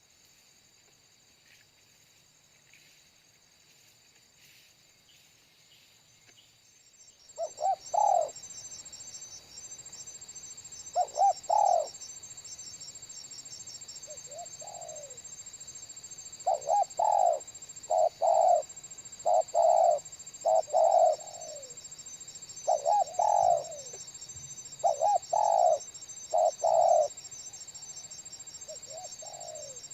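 Near silence for the first seven seconds, then a spotted dove (tekukur) calling: repeated loud coos in short phrases of two or three notes, over a steady high-pitched drone.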